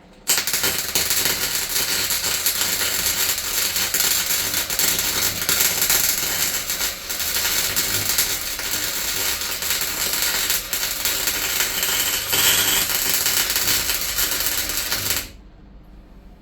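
Welding arc on the van's floor panel, crackling steadily for about fifteen seconds over a low hum. It starts suddenly and cuts off about a second before the end.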